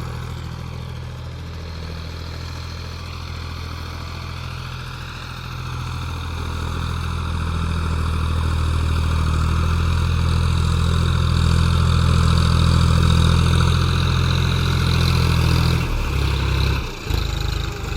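Tractor engine running steadily, growing louder over the first half, then near the end its note drops and falters briefly.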